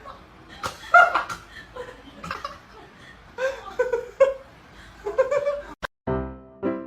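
A person laughing in short bursts, then piano music starts near the end after a brief break.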